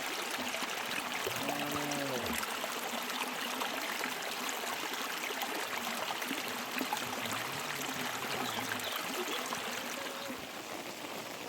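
Steady heavy rain with rushing runoff water: an even hiss scattered with small drop ticks. About two seconds in, a short low call rises and falls over it, and fainter low calls come later.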